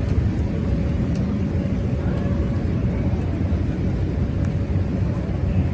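Busy city street ambience: a steady low rumble of traffic, with a faint held hum above it.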